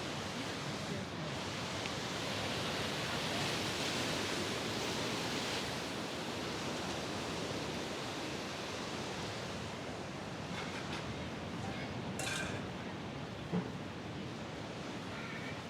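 Steady wash of Mediterranean surf on the shore, swelling a few seconds in. A few short sharp ticks come later.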